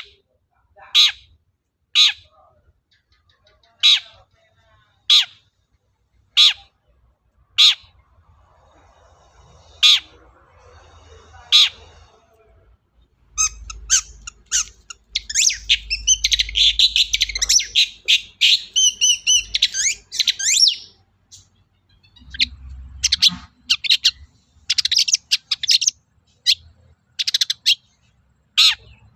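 Long-tailed shrike (cendet) calling: sharp, harsh single calls about once a second, then, about halfway, a dense burst of fast chattering song lasting several seconds, followed by quicker runs of calls.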